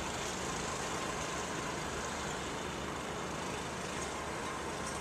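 Steady distant traffic hum.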